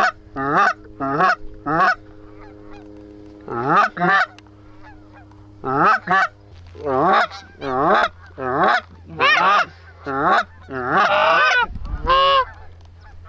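Geese honking: a run of short, sharp honks, about two a second, with a pause early on and a longer, louder honk near the end.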